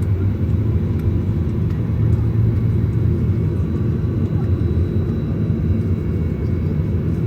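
Steady low rumble inside the cabin of a Boeing 737-900ER on the ground, its CFM56-7B engines at idle, with a faint steady high whine above it.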